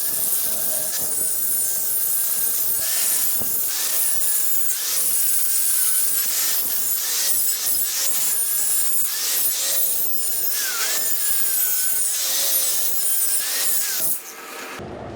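Angle grinder cleaning up the cut edges of a steel core barrel, a steady grinding hiss with a high whine that wavers in pitch as it is worked against the metal, stopping shortly before the end.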